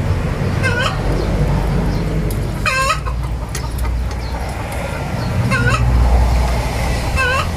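Chickens clucking, four short bending calls about two seconds apart, over a steady low rumble.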